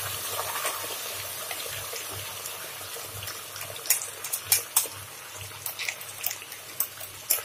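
Onion paste sizzling in hot oil in a kadai. A steady hiss slowly fades, and from about four seconds in the oil spits with sharp pops.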